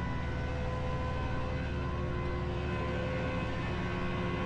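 Flatbed tow truck's engine running with a steady mechanical whine over its low rumble, as the truck is maneuvered into position.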